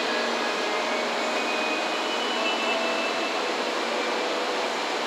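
Steady whirring hum of an N700 series Shinkansen train standing at the station platform with its doors closing.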